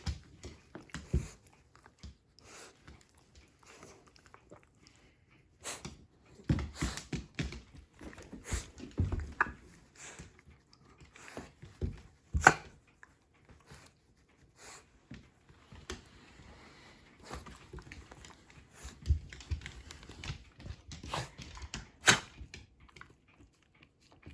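Shiba Inu panting and moving about, with scattered sharp clicks, knocks and a few low thumps.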